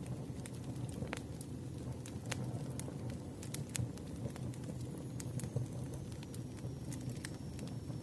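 Campfire crackling: irregular sharp pops and snaps from burning wood over a steady low rumble of the fire.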